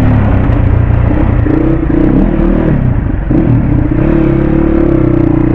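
RM 250 dirt bike engine running under way, its pitch rising and falling with the throttle and briefly dipping about three seconds in.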